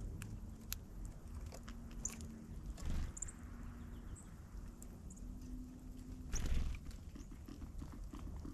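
Small wild birds pecking and chirping: scattered sharp taps and clicks with a few short, high chirps, and two louder thumps about three and six and a half seconds in.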